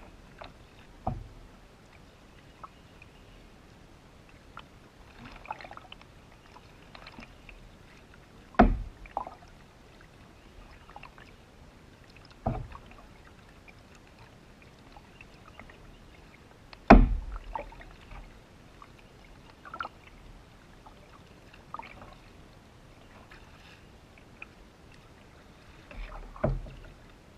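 Canoe on the river being paddled, with about five sharp knocks against the boat spread through the stretch, the loudest a little past the middle, and fainter clicks between them.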